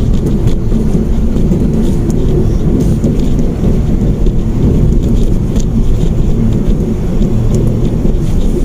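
Steady low rumble of a Mitsubishi Mirage hatchback on the move: engine and road noise heard from inside the cabin.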